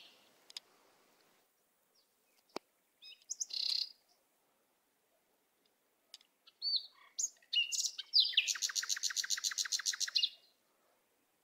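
Songbirds chirping: scattered short high calls and whistles, then a rapid trill of about seven notes a second that lasts some two seconds in the second half.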